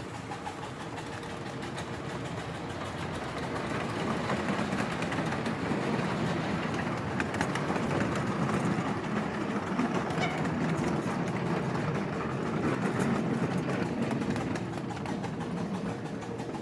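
Ride-on miniature railway train running past, its rattle building over the first few seconds, holding, then fading near the end.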